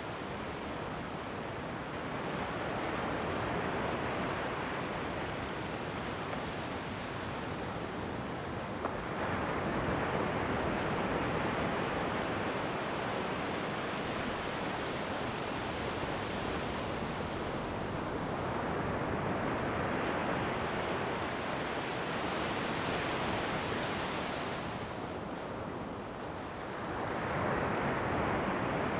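Ocean waves breaking and washing up the shore, in a continuous wash that swells with a new wave every six or seven seconds.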